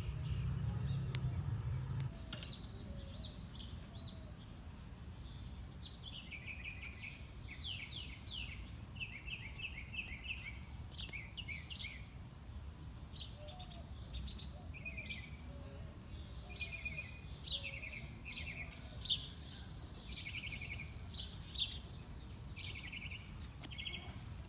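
Songbirds chirping and twittering in quick short trilled phrases, over a steady low background rumble that is heavier for the first couple of seconds.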